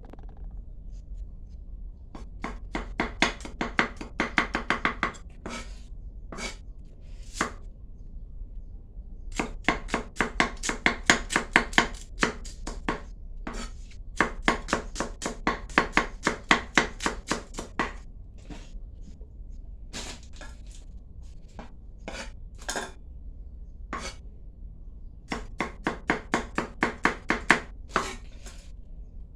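Rapid knife chopping on a cutting board, about seven strokes a second, in several runs of a few seconds each with pauses and single chops between.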